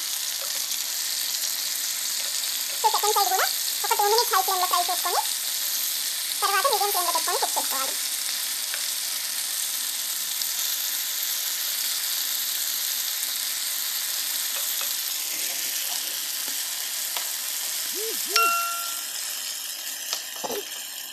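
Chicken drumsticks shallow-frying in oil in a nonstick pan, sizzling steadily while a steel spoon stirs and turns them against the pan. The sizzle eases in the last few seconds, and a short steady beep sounds near the end.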